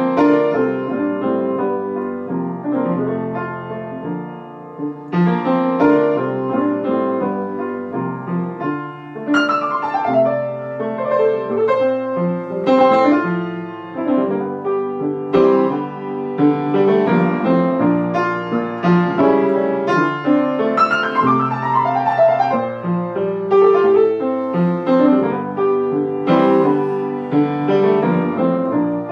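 Solo piano break between sung verses, chords and melody played at a moderate pace, with a quick downward run about a third of the way in and another past two thirds.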